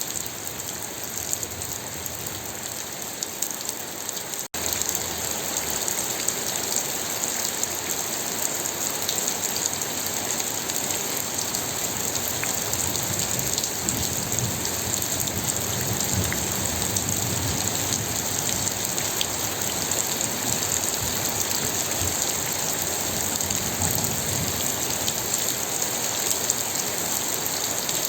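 Steady rain falling in a dense, even patter. The sound drops out for a split second about four and a half seconds in, then carries on slightly louder.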